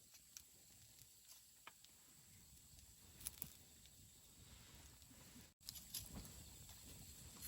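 Wood campfire crackling quietly, with scattered small pops and snaps over a soft low rumble. The sound drops out for an instant about five and a half seconds in.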